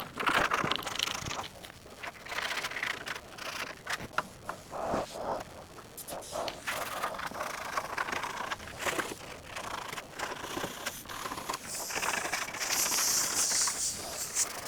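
Sandpaper rubbed by hand over bare metal in irregular scraping strokes, a little brighter and hissier near the end.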